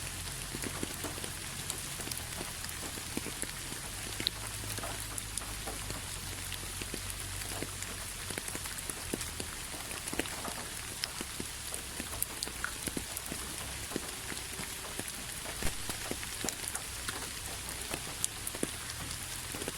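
Steady rain with many separate drops ticking sharply on a hard surface, over a constant hiss and a low rumble.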